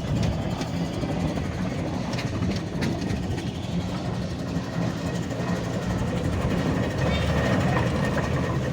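Steam traction engine running: a steady mechanical sound with a few clicks.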